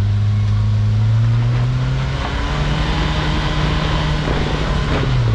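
An off-road vehicle's engine running under load while crawling up rocks. It holds steady, then revs higher about two and a half seconds in and eases off near the end.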